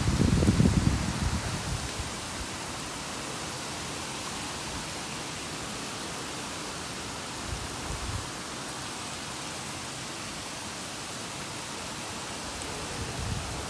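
Strong storm wind: a steady rushing noise, with gusts buffeting the microphone in low rumbles at the start, briefly around eight seconds, and again near the end.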